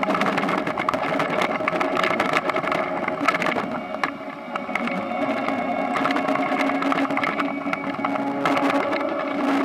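Toyonoki potato harvester running: a steady engine drone under dense, irregular rattling and clattering of the machinery.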